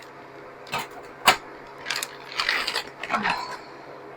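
Frozen food portions being handled and set onto freeze-dryer trays: a few sharp clicks and knocks, the loudest about a second in, then short bursts of scraping and clattering.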